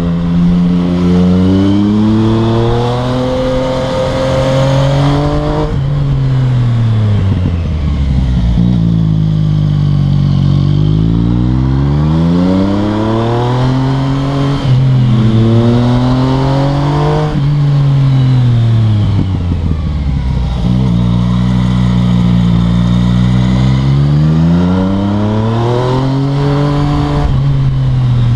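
Yamaha MT-09's three-cylinder engine through an Akrapovic exhaust, repeatedly revving up and backing off: the pitch climbs, falls away, and climbs again, with a couple of abrupt drops.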